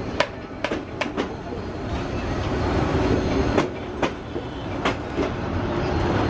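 Passenger train running on rails: a steady rumble with sharp, unevenly spaced clickety-clack as the wheels go over rail joints.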